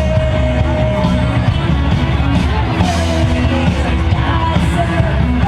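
Loud live rock band playing, with sung or held melody notes over bass and drums.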